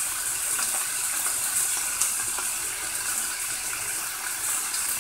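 Whole baby octopuses sizzling steadily in a hot frying pan as their water cooks off, with scattered small pops and a sharper one about two seconds in.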